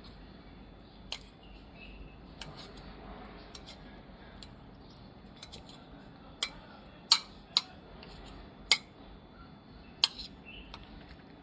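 A series of about seven sharp clicks and clinks, irregularly spaced, the loudest bunched in the second half, over a low background hiss.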